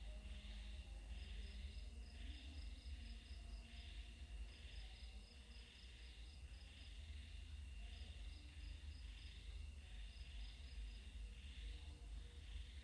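A chorus of insects chirping, in pulsing swells about once a second, with runs of rapid high ticks of about six a second. A low rumble runs underneath.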